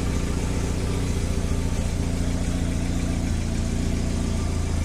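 Engine of a homemade articulated (frame-steered) off-road vehicle running steadily at a low, even speed.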